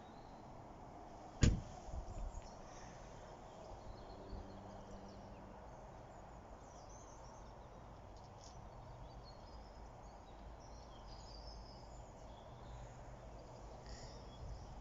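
Quiet outdoor background with a steady low rumble, broken by one sharp knock about a second and a half in, with a few faint high chirps later on.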